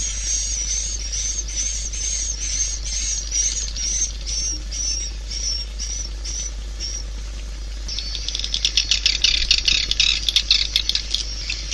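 Recorded swiftlet calls of the kind played from tweeters at swiftlet houses. A run of short high chirps, about two a second, thins out, then about eight seconds in gives way to a dense, rapid twittering chatter.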